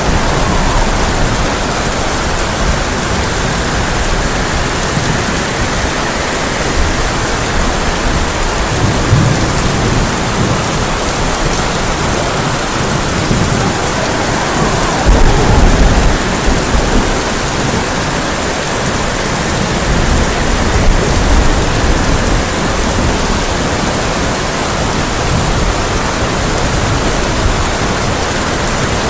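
Heavy rain drumming steadily on a tin roof, with low thunder rumbling several times, loudest about halfway through.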